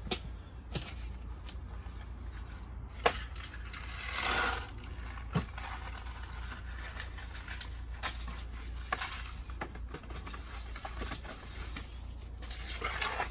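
Scattered clicks and knocks with short rustling bursts, one about four seconds in and one near the end: a seed tray and compost being handled while peas are sown, over a steady low hum.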